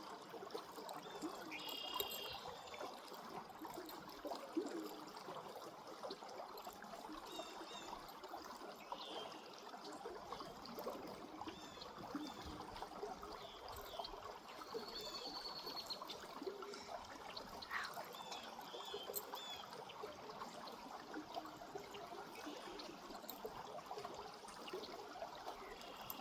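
Creek water trickling steadily, with a few faint high chirps now and then.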